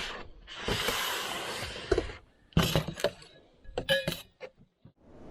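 Clinks and knocks of metal camp cookware and utensils, one of them ringing briefly, with a short rustle before them.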